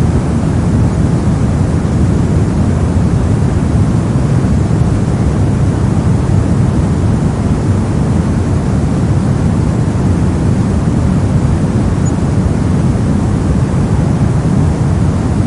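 Brown noise: a steady, deep rushing noise with most of its energy in the low end and little in the highs.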